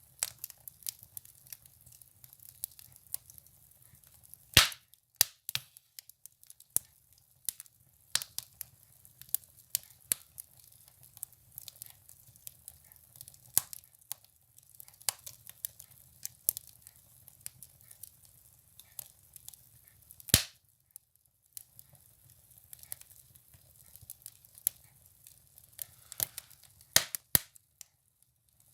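Firewood burning in a wood stove, crackling with irregular sharp pops, two of them louder snaps, about four and a half seconds in and about twenty seconds in.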